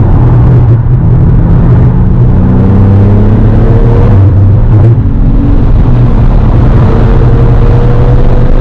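2017 Porsche 911 GTS's twin-turbo flat-six pulling hard under full acceleration from about 50 to nearly 90 mph. The engine note climbs, breaks briefly at a gear change about five seconds in, then climbs again.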